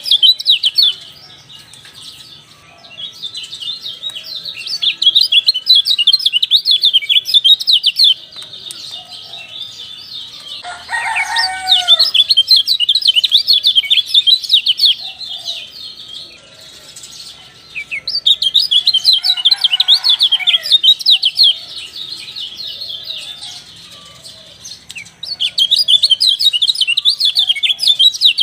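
Kecial dampuk (a white-eye) singing in repeated bursts of rapid, high twittering chatter, each lasting a few seconds with short pauses between. Twice a lower call with falling notes comes in beneath the song.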